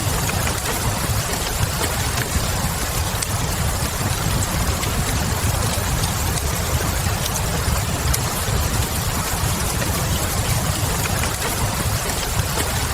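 Ambience mix of a crackling wood fire and steady rain: an even hiss of rain over a low rumble, with scattered faint pops from the fire.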